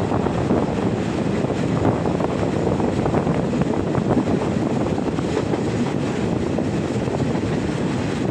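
Suburban passenger train running along the track, heard from inside a carriage: a steady rumble of wheels on rails mixed with wind rushing past the microphone.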